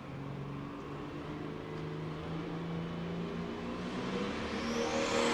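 Pro stock pulling tractor's turbocharged diesel engine running, then revving up and getting much louder near the end as it builds power to start its pull.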